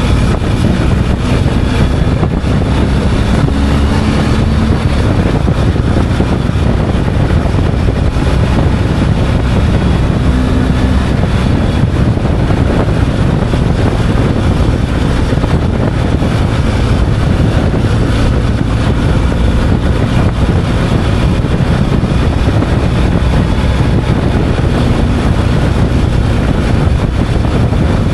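Motorcycle running at a steady cruising speed, its engine drone mixed with a constant rush of wind noise.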